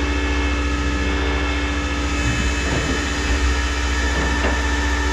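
Tow truck's engine running steadily under load, with a steady mechanical whine from its drive or hydraulic equipment over a low drone, as the non-running car is pulled aboard.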